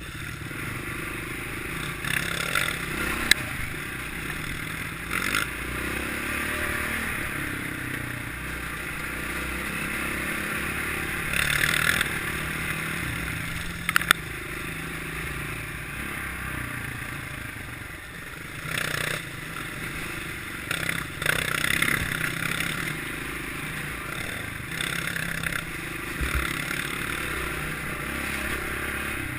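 Kawasaki KLX650R's single-cylinder four-stroke engine running as the enduro motorcycle is ridden off-road, with clatter and scraping from the trail. There are a few sharp clicks along the way.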